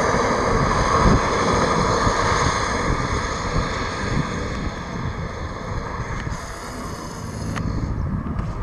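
Aircraft engine noise: a steady rushing sound with several high whining tones above it, slowly fading, with wind on the microphone.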